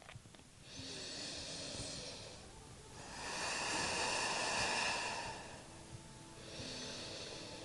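A person's slow, audible breathing: three long breaths, each a soft hiss lasting one to nearly three seconds, the middle one the longest and loudest.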